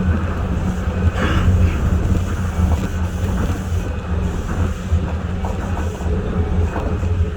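Tokyo Monorail 1000-series train running, heard from inside the car as a steady low drone with a brief hiss about a second in.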